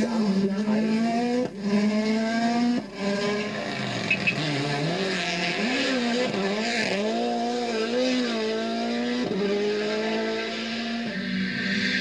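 A WRC rally car's turbocharged four-cylinder engine at full throttle. The pitch climbs and drops sharply at each upshift, and in the middle the revs swing rapidly up and down.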